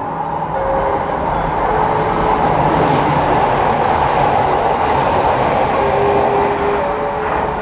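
Kounotori limited-express electric train passing through a station platform at speed without stopping. A loud rush of wheels and air builds over the first couple of seconds and holds as the coaches go by, with a few brief steady tones over it.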